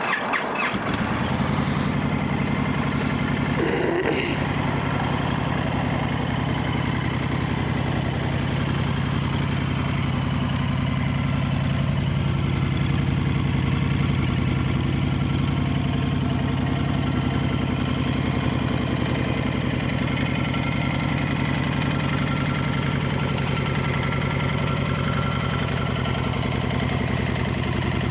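2010 Honda Fury's V-twin engine through its stock exhaust, catching about a second in and settling into a steady idle.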